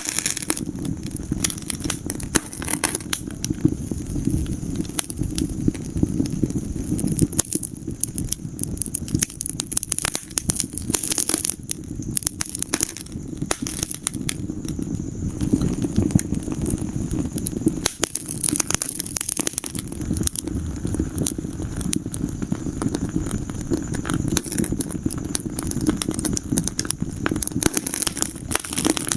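Wood fire crackling steadily in a fireplace, with dense, irregular pops and snaps over a low rumble of burning.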